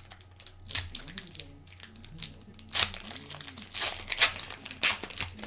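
Foil trading-card pack wrapper crinkling and tearing in the hands, in several short crackles.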